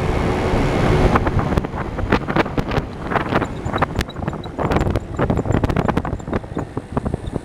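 Wind buffeting the microphone of a moving vehicle in irregular gusts and crackles over a steady low running rumble.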